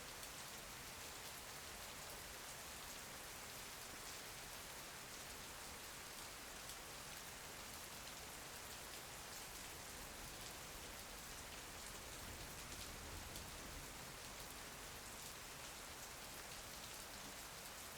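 Steady rain falling, a soft continuous patter of raindrops with no thunder.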